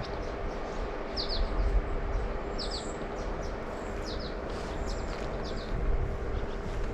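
A small songbird calling with short, high, downward chirps, often two close together, repeated every second or so over a steady rushing background noise.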